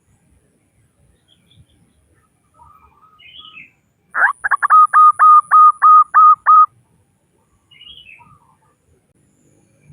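Female zebra dove (perkutut) calling: a quick run of about a dozen short, clipped notes at one steady pitch, lasting about two and a half seconds around the middle. This is the hen's call that draws males to answer. Faint chirps of other small birds come before and after it.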